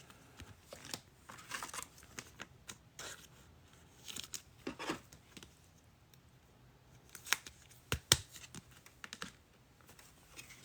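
Trading cards and their packaging being handled: scattered rustling, crinkling and light clicks, with two sharper taps about seven and eight seconds in.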